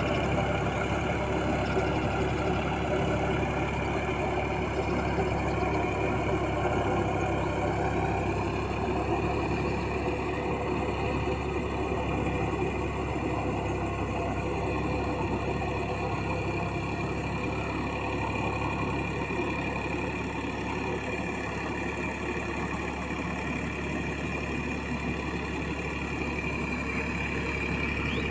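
Massey Ferguson 9000 tractor engine running steadily while puddling a muddy field, with an even, unchanging note.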